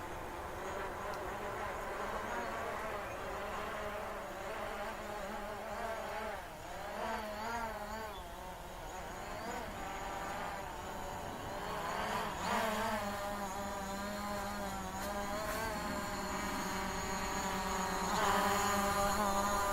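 DJI Mavic Pro quadcopter's propellers buzzing in flight, heard from the ground. The whine's pitch wavers up and down a few times as the drone manoeuvres, and it grows louder near the end.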